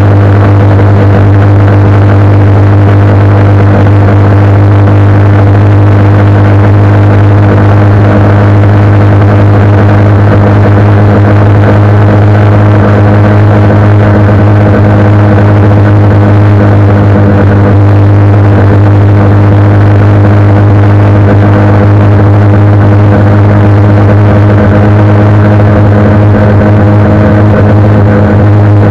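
Honda CBR 125R's small single-cylinder four-stroke engine running at a steady cruising speed, a constant even drone. Wind rushes over the microphone.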